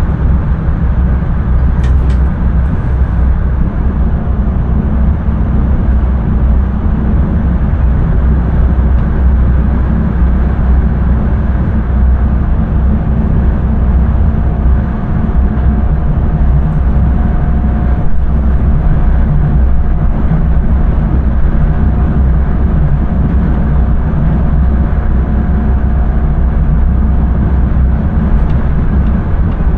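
Intercity train running along the line, heard from the driver's cab: a loud, steady rumble of wheels and running gear. A faint steady whine joins about twelve seconds in.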